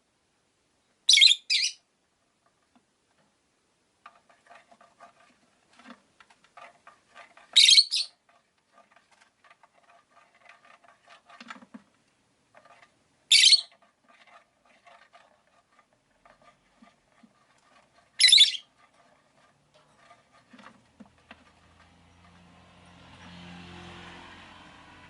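Peach-faced lovebirds calling: sharp, high calls, a quick double call about a second in, then single calls about every five seconds, over soft, steady chattering and twittering. A swell of passing traffic noise rises and fades near the end.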